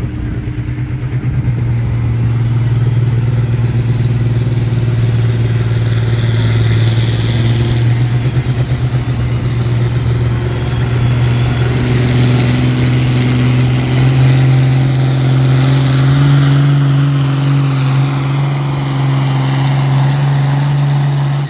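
A pulling vehicle's engine running hard at high revs under load during a pull: a loud, steady drone whose pitch steps up slightly partway through.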